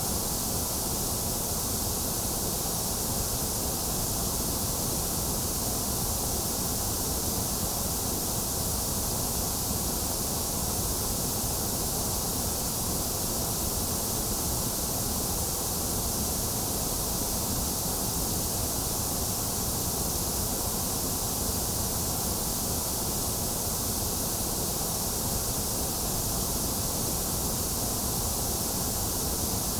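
Steady white noise sleep track: an even, unchanging hiss, strongest in the high range, with no breaks or changes.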